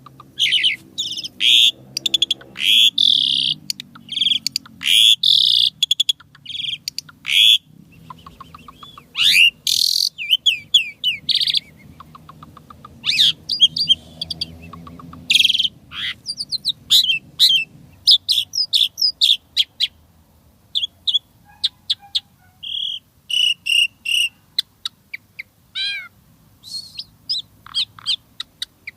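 Asian pied starling (jalak suren) singing a long, varied song of rapid chirps, harsh notes and whistles in quick runs, broken by short pauses, with a few repeated sweeping whistles near the end.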